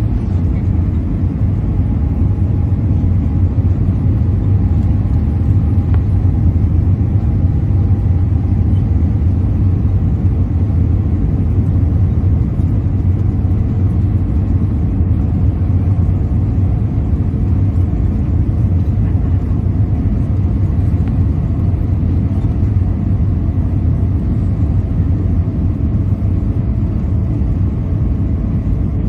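Cabin noise of an Airbus A320-232 in flight: the steady low rumble of its IAE V2500 turbofans and the airflow, with a faint whine above it.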